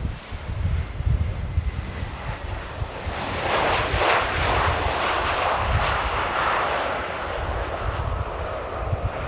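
Boeing 737-800 jet engines (CFM56-7B turbofans) on landing approach: the jet noise swells about three seconds in with a faint high fan whine, is loudest in the middle, then eases off. Gusts of wind buffet the microphone throughout.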